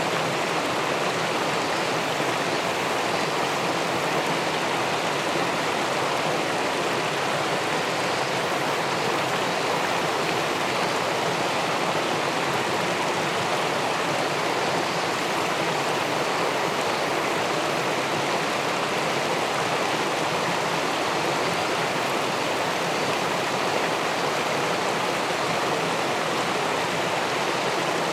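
Steady rushing of clear river water spilling over a small weir into the pool below, an even hiss with no breaks or changes.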